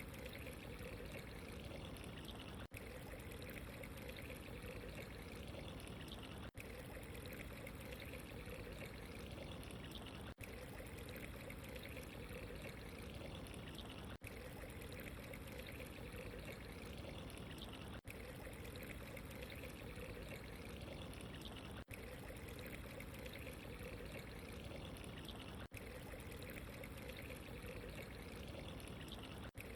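Steady trickling and pouring of running water, with very short dips in the sound about every four seconds.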